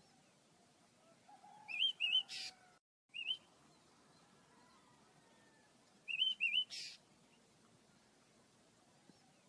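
Pet cage bird singing the same short phrase twice, about four seconds apart: a low warble, two quick rising-and-falling whistled notes, then a harsh buzzy rasp.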